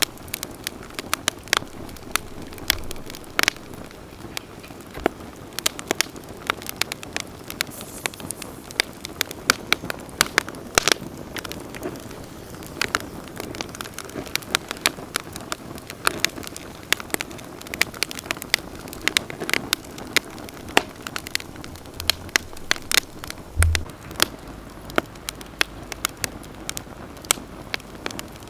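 Wood campfire burning, with many irregular sharp crackles and pops over a steady hiss of flames. A few dull low bumps come near the start and near the end.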